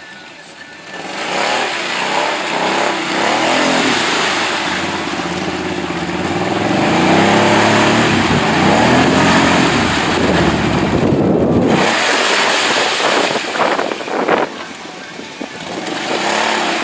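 ATV engine revving hard in a mud hole, its pitch rising and falling under a dense rushing noise. It eases off sharply about eleven seconds in, then picks up again.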